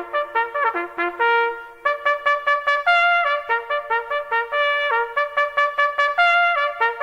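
Brass music led by trumpets, playing a tune of short repeated notes and held notes.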